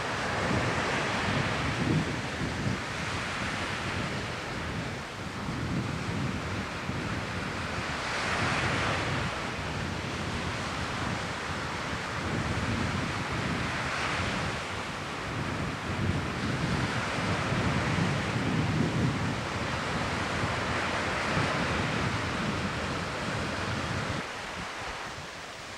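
Sea waves washing in and drawing back, swelling and fading every several seconds, with wind buffeting the microphone. It quietens near the end.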